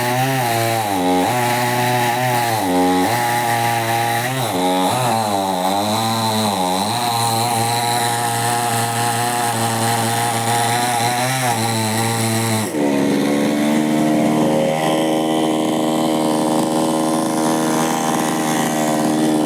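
Chainsaw engine running hard and cutting wood; its pitch sags and recovers several times as the chain bites and clears. About two-thirds of the way through the sound changes abruptly to a steadier engine note.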